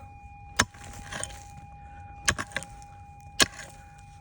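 Small one-handed prospecting pick striking and scraping into stony ground, with about four sharp strikes and the scrape and rattle of loose dirt and rocks between them.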